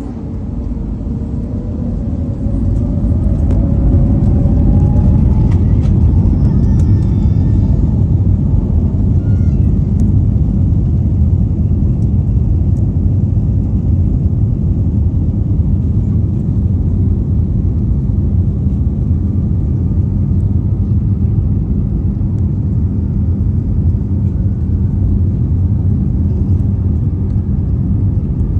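Airbus A321neo's CFM LEAP-1A turbofan engines spooling up to takeoff thrust: a rising whine over the first few seconds as the noise swells, then a steady loud low rumble.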